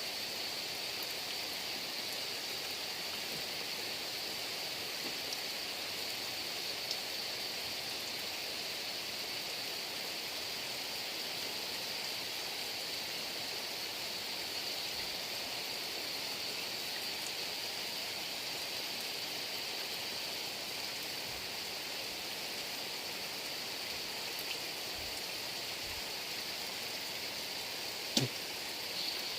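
Heavy rain falling steadily, an even rushing hiss, with one short sharp knock near the end.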